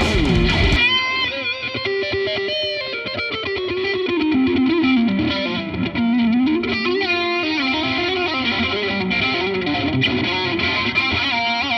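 Newen TL electric guitar with distortion playing an unaccompanied single-note lead break. The backing band drops out about a second in and comes back right at the end. The line moves in runs with pitch glides up and down.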